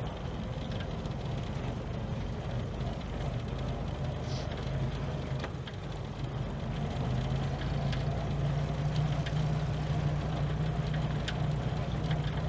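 A car engine running steadily, getting a little louder about seven seconds in.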